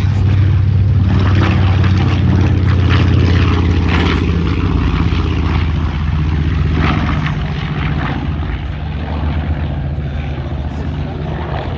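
Twin radial piston engines of a B-25 Mitchell bomber running at power as it flies past, a steady low propeller drone that grows fainter in the second half.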